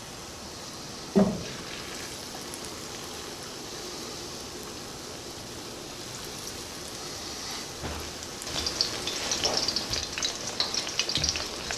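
Flour-dredged, egg-dipped chicken cutlets frying in hot oil in a pan: a steady sizzle that turns into louder, denser crackling from about eight seconds in. A brief clunk about a second in.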